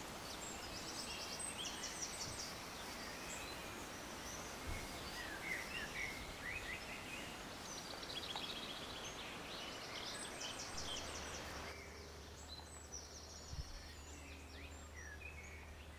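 Small birds singing outdoors: repeated high, rapid trills and short chirps over a steady background hiss, which turns quieter about twelve seconds in.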